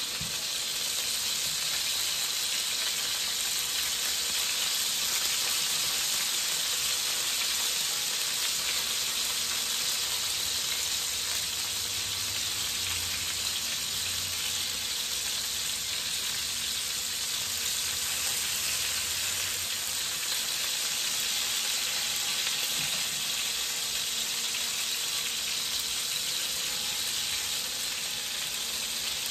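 Cod fillets sizzling steadily as they pan-fry in hot oil in a frying pan.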